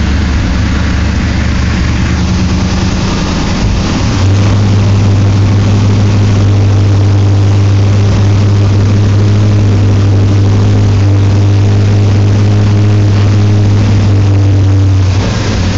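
Chevrolet C10 pickup's engine running cold, just after being started. About four seconds in it is revved up and held at a steady higher speed, then it drops back down near the end.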